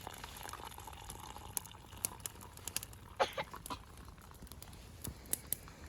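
Campfire crackling in scattered sharp pops, with water seething in a kettle set on the fire. A short falling squeak about three seconds in.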